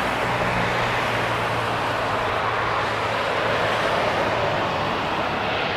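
Jet airliner engines running with a steady, even roar and a faint low hum underneath.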